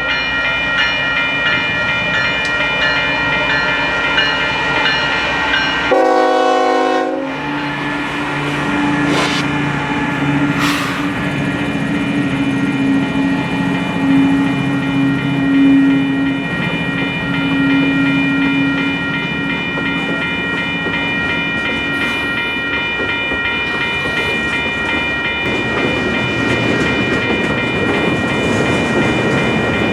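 Freight train passing, with a short horn blast about six seconds in and the diesel locomotive's engine drone under a steady high whine.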